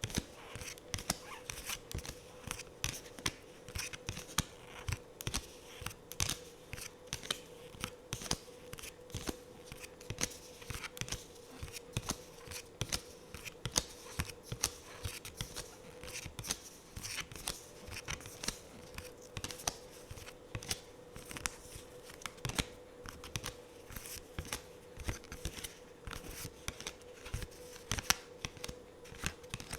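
Tarot cards being handled close to the microphone: a dense run of irregular clicks, taps and flicks of stiff card stock, several a second, over a faint steady hum.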